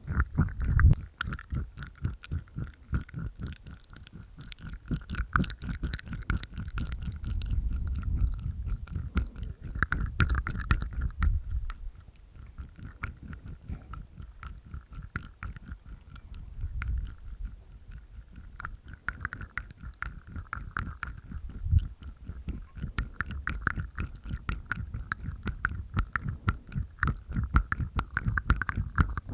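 Close-miked ASMR mouth sounds: a dense, rapid run of wet clicks and smacks from the tongue and teeth inside the mouth, with busier stretches and quieter ones.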